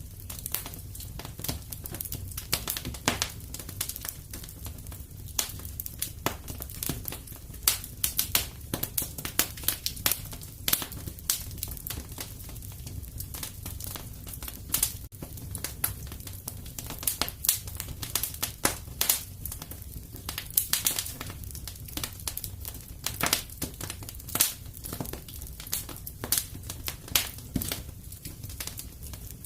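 Wood fire burning in a fireplace: a steady low rumble under irregular sharp crackles and pops.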